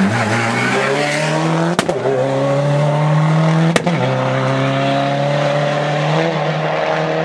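A rally car's engine pulling hard under acceleration, its pitch climbing through the gears. There are quick upshifts about two seconds in and again near four seconds, each followed by a fresh rise in revs.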